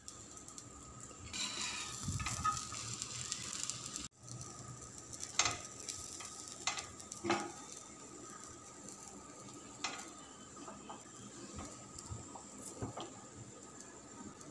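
Bread omelette frying in a hot pan with a soft sizzle, louder in the first few seconds, and a handful of sharp clicks and scrapes as a steel spatula folds and presses it against the pan.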